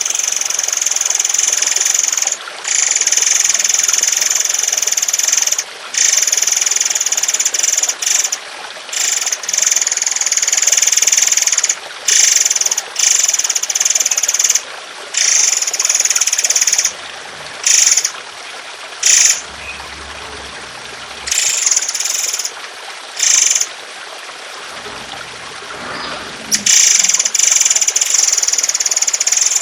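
Songbird recording used for training cage birds: long, rough, rapid chattering bursts of song, each several seconds long with brief pauses, shorter and choppier in the middle. It plays over a steady trickle of water.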